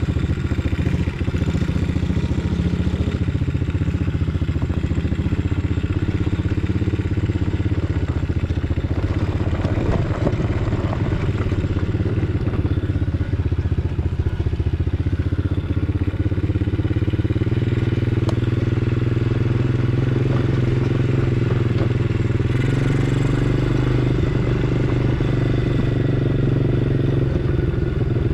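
An engine running steadily, its pitch stepping up twice in the second half as if the throttle or load changes, with some clatter.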